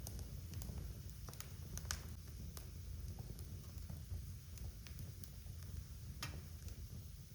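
Wood fire in a fireplace crackling: irregular sharp pops and snaps over a low steady rumble of the flames, the strongest pop about six seconds in.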